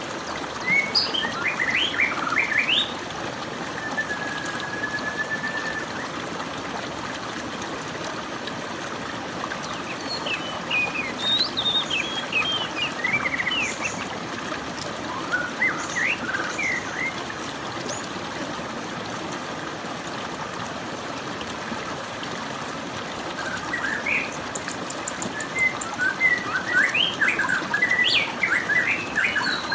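Wild songbirds singing in bursts of quick, varied chirps and whistles, with one long held whistle, over the steady rush of a stream of running water.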